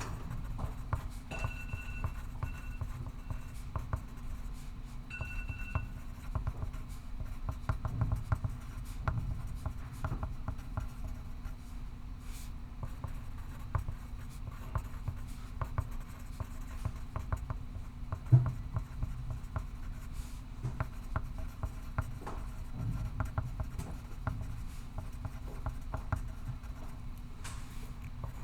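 Pencil scratching on paper in quick, irregular strokes as someone writes, over a steady low hum of room ventilation. A few faint short beeps sound in the first few seconds, and one sharper tap comes about two-thirds of the way through.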